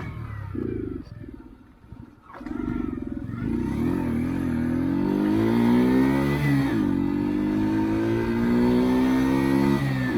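Mash Fifty's 50cc single-cylinder four-stroke engine accelerating through the gears. Its pitch climbs, then drops sharply at a gear change about two-thirds in and again near the end.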